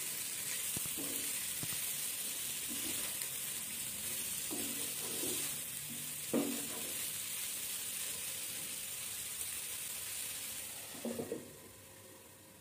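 Prawns sizzling in oil in a nonstick pan as a wooden spatula stirs and scrapes them, with one sharper knock midway. Just after eleven seconds a lid is set on the pan with a few quick clinks, and the sizzle drops to a muffled hiss.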